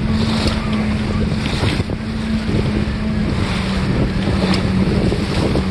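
Strong wind buffeting the microphone aboard a Catalina 22 sailboat under sail in high wind, with choppy water splashing against the hull and a steady low hum underneath.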